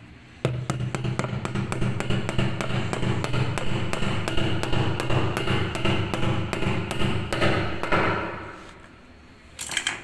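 Rapid, even hammer strikes, about four a second, on a washing machine's drum bearing housing, knocking out the drum bearing. The hammering stops about eight seconds in, and a short clatter follows near the end.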